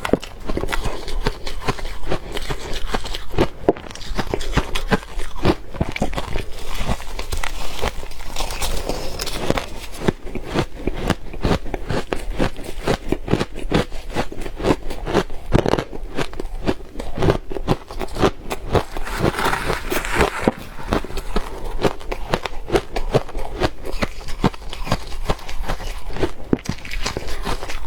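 A person biting and chewing soft frozen ice and crushed ice close to the microphone, a dense run of crackling crunches.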